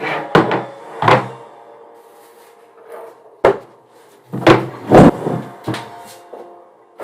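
Irregular knocks and clunks of wooden things being moved, opened, shut and set down during tidying, the loudest about five seconds in. Faint held tones run steadily underneath.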